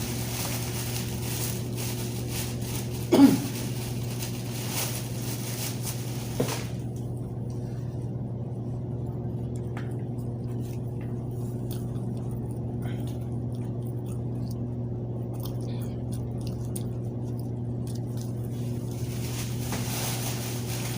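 Steady low hum, with faint chewing of hard bread over the first few seconds and a short sound falling in pitch about three seconds in, then a smaller one about six seconds in.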